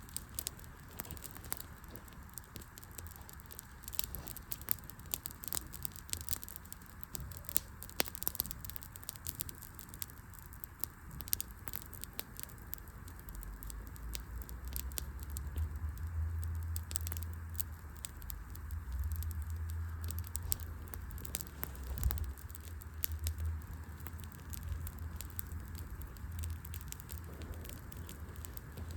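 Wood fire burning, with frequent sharp crackles and pops of the burning logs. A low rumble comes up about halfway through and carries on.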